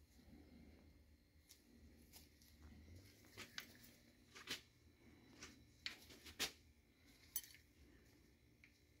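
Near silence broken by several light metallic clicks and clinks, most of them in the middle and the loudest about two-thirds in: metal engine parts being handled and set down during block assembly.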